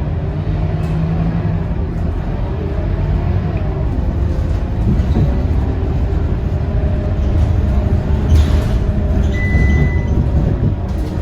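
Scania K230UB bus's five-cylinder diesel engine running with road noise, heard inside the cabin as the bus travels between stops. A short high beep sounds about nine seconds in.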